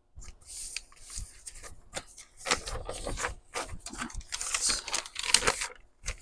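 Sheets of crinkly paper rustling and crackling in bursts as they are handled and folded.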